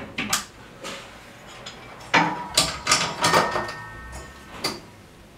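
A series of sharp clicks and knocks from handling and fitting a solar inverter's front panel and its cable connections, the loudest about two seconds in, one knock ringing briefly.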